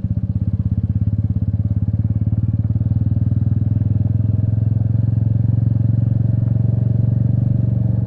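Royal Enfield Meteor 350's single-cylinder engine running steadily while the motorcycle is ridden, a fast, even run of firing pulses heard close up from the rider's microphone.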